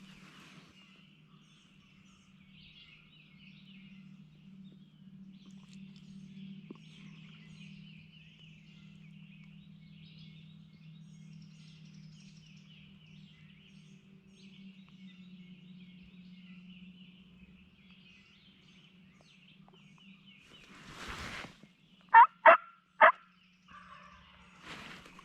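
Three loud, short turkey yelps near the end, just after a brief rustle. Before them, faint songbird chirps over a low, steady hum.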